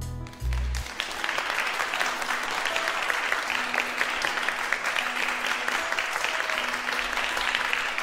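Applause, a dense steady clapping that swells in about a second as a short musical jingle fades out. It is the reward sound for the completed puzzle.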